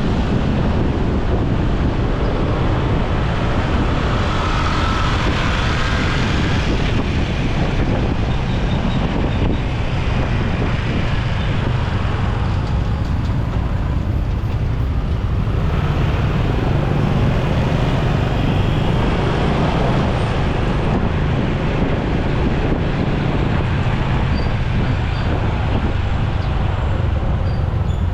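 Steady road and traffic noise heard from a motorcycle riding through city traffic: engines and tyres running together as one dense rumble, with no single event standing out.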